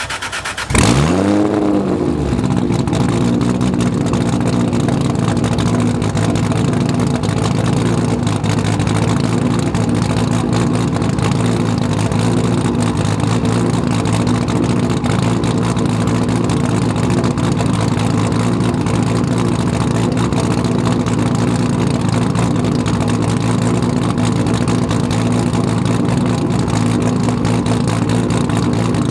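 Toyota Supra MK4's twin-turbo 2JZ-GTE inline-six starting: it catches about a second in with a brief rev flare that drops back, then idles steadily.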